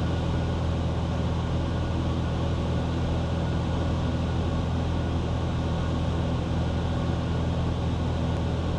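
Cessna 182 Skylane's piston engine and propeller droning steadily in level cruise flight, a constant low hum with no change in pitch or power.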